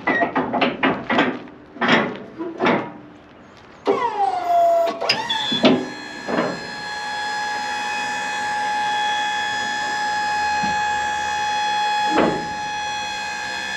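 Truck liftgate being operated: a run of metal clanks as it is unlatched, then its electric-hydraulic pump motor starts and runs with a steady whine. One more knock comes near the end.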